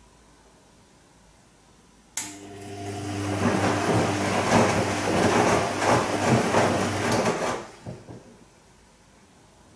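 Bosch Serie 2 VarioPerfect washing machine on its Silk programme turning its drum for about five seconds. The motor hums steadily under the swish and slosh of wet laundry and water. It starts suddenly about two seconds in and stops near the end, leaving a quiet pause, as in the programme's gentle wash.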